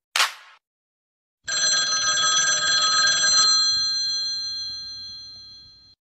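Electric bell, like an old telephone ringer, ringing rapidly for about two seconds, then stopping and its tone dying away over a couple of seconds.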